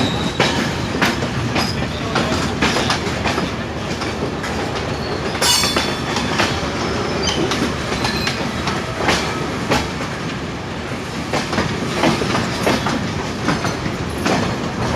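Passenger train running at speed, its wheels clattering over rail joints in an irregular clickety-clack over a steady rumble, with one sharper metallic clack about five and a half seconds in.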